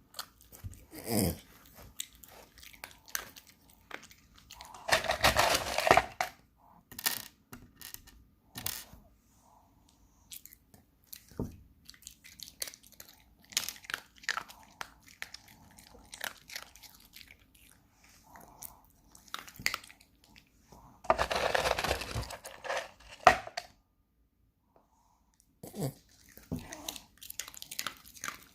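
A dog chewing and crunching food: irregular bites and crunches, with two longer, louder bouts of crunching and tearing about five seconds in and again around twenty-one seconds.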